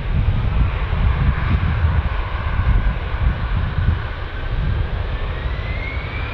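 Airliner engines running loud, with a heavy low rumble. A whine rises in pitch from about five seconds in.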